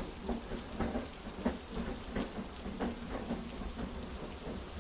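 Steady heavy rain with soft, regular clacks of train wheels over rail joints, about every two-thirds of a second.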